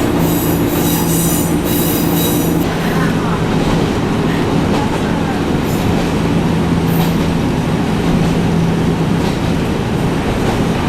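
Echizen Railway electric railcar running along the track, heard from on board as a steady running hum and rumble. A high-pitched wheel squeal lasts for about the first two and a half seconds, then fades.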